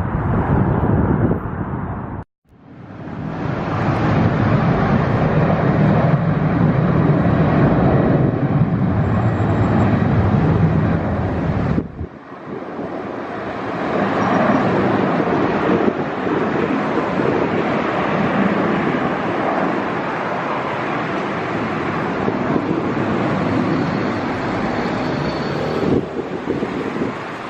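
Jet airliner engines rumbling at a distance, mixed with wind buffeting the microphone. The sound cuts out completely for a moment about two seconds in and fades back up, then changes abruptly near the middle, with the low rumble dropping away.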